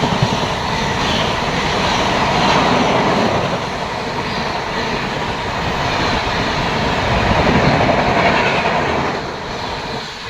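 Rajdhani Express train passing through the station at speed on the main line, a continuous loud rush of wheels on rail and coaches going by, easing off a little near the end.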